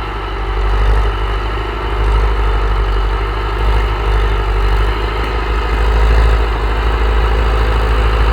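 Tractor engine running steadily with a deep, even low throb, the loudness rising and falling only slightly.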